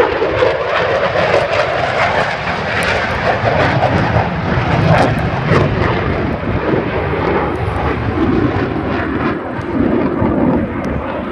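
Loud airplane engine noise from an aircraft flying by, swelling to its loudest about halfway through and easing slightly near the end.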